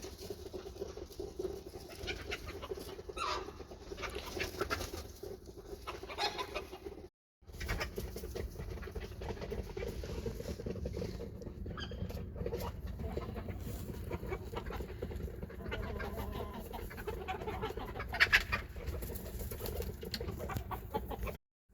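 Chickens clucking over a steady low hum, with short calls scattered through. The sound cuts out briefly twice.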